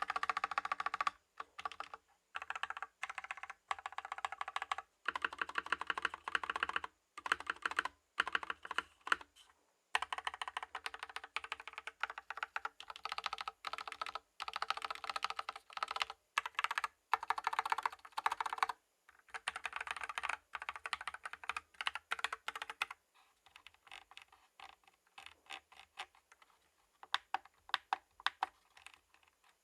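Typing on a Tom680 65% mechanical keyboard fitted with cherry-profile keycaps: quick runs of keystrokes broken by short pauses. About three quarters of the way through, the keystrokes become sparser and softer.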